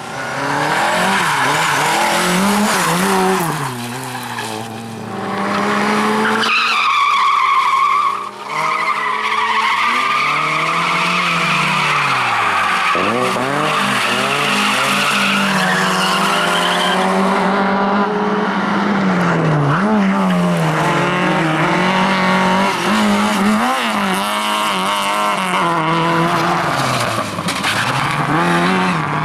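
Rally car engine revving hard, its pitch climbing and dropping again and again through gear changes and lifts, with tyres squealing as the car slides.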